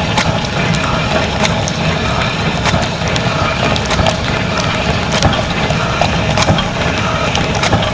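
Running dishwasher heard from inside the tub: a steady rush of spraying water with many irregular sharp clicks and rattles.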